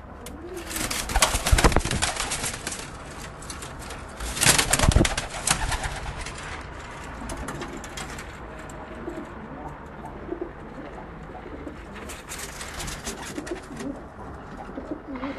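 Pigeons cooing in low, repeated rolling calls, with two loud bursts of rustling noise, one about a second in and one around four and a half seconds in.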